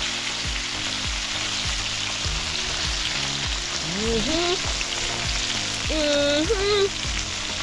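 Fish frying in hot oil in a pan, a steady sizzle, with music with a steady beat playing alongside and a few sung or hummed notes.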